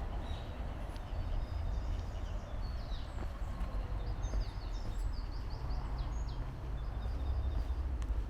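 Small songbirds chirping and twittering in quick short notes, busiest in the middle of the stretch, over a steady low rumble.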